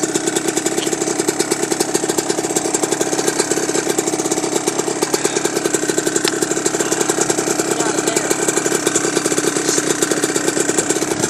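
Dirt bike engine idling in neutral, a steady run of rapid, even firing pulses.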